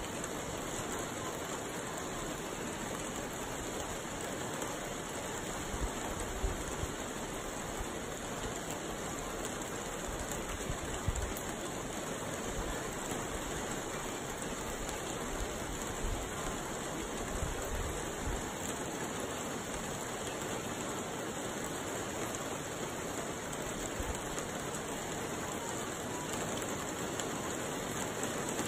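Steady rain falling, an even hiss, with a few brief low bumps partway through.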